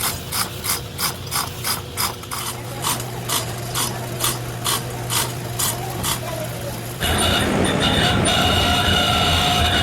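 Ratchet-like mechanical clicking, about three even clicks a second, then about seven seconds in a sudden change to steady heavy machinery running with a high whine and a low hum.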